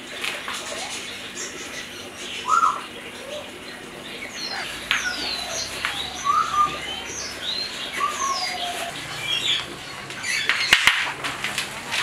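Small birds chirping and whistling in short, scattered calls that glide up and down in pitch. A few sharp clicks come near the end.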